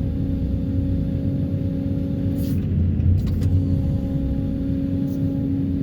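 Excavator running under load, heard from the operator's cab: a steady low engine and hydraulic drone with a constant whine, and a couple of brief knocks midway.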